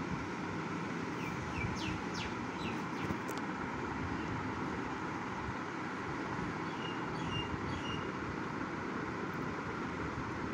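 Steady background noise with small birds chirping: a quick run of short rising chirps in the first few seconds, and a few more short chirps a little after the middle.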